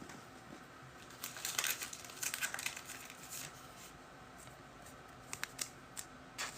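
Crinkling of card packaging being handled, in a few quick bursts between about one and three and a half seconds in, followed by a few light clicks near the end.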